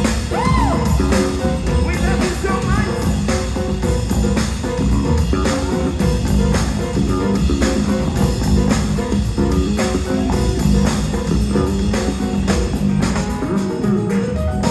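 Live gospel band playing an instrumental passage: electric guitar over bass and drums with a steady beat.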